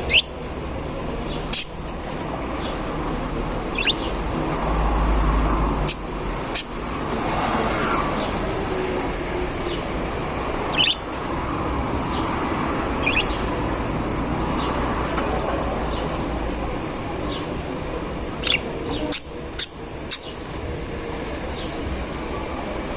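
Budgerigars chirping: short, sharp calls at irregular intervals, with a quick cluster of them near the end, over a steady background rumble.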